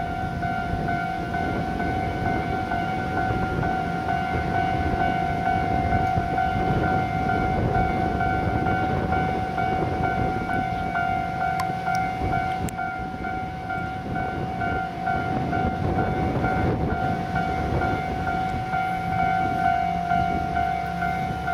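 Level-crossing warning alarm ringing in a fast repeating pattern, over the low rumble of the DD352 diesel switcher and its freight wagons moving through the yard.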